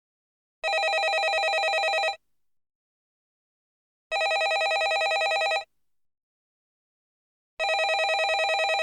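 Landline telephone ringing: three rings in a regular cadence, each a rapid trill about a second and a half long, with about two seconds of silence between them.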